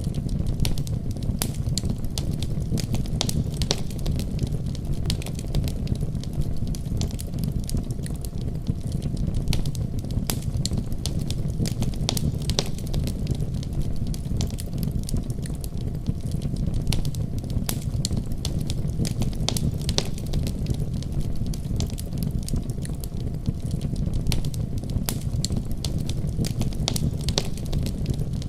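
Fire in a fireplace crackling, with frequent sharp irregular pops and snaps over a steady low rumble of burning flames.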